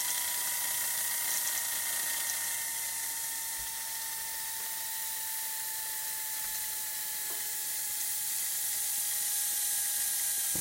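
Toy Whizzer steam engine running under steam: a steady hiss of steam with a high whine from the spinning engine that sinks slowly in pitch, as the engine gradually loses speed.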